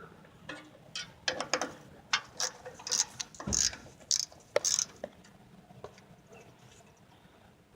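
Hand ratchet clicking in irregular runs with metal scrapes, working a wheel cylinder mounting bolt loose from a drum brake backing plate; it dies down after about five seconds.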